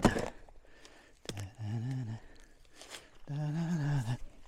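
Axe strikes splitting dry eucalyptus logs: one sharp crack just after the start and another just over a second in. A man's low voice sounds twice between the strikes, without clear words.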